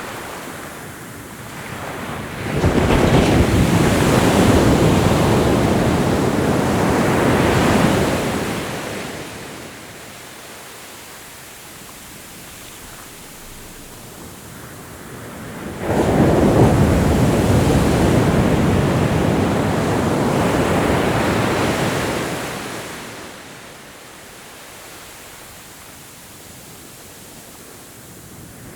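Ocean waves breaking on a shore: two waves come in, about 3 and 16 seconds in, each washing loudly for about six seconds before falling back to a softer hiss.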